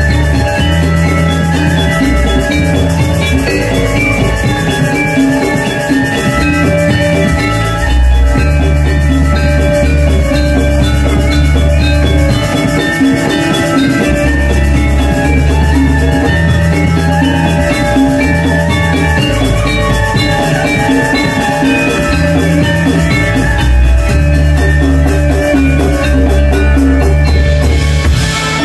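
Live Balinese gamelan music: many metallophones ringing bright, overlapping tones over drumming, with deep low notes held every second or two.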